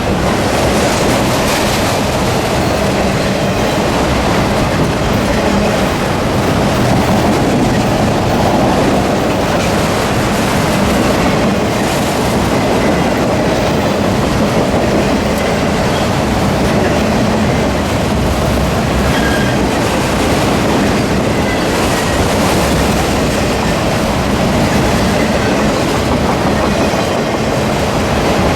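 A freight train's cars rolling past at close range, wheels clattering steadily over the rail joints, with faint brief wheel squeals now and then.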